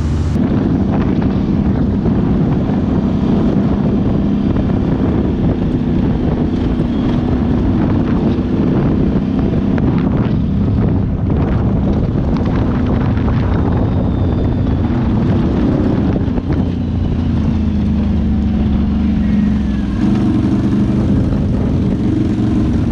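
ATV engine running steadily while riding, its note shifting a little about two-thirds of the way through and again near the end.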